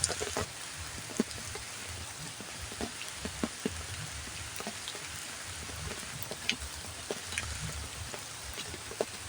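Heavy rain falling steadily, with frequent sharp hits of single drops on a hard surface.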